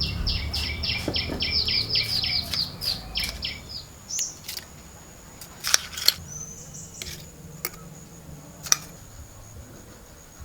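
A bird calls in a fast run of repeated high chirps, about four or five a second, for the first three and a half seconds. A few sharp clicks follow, over a thin, steady high-pitched tone.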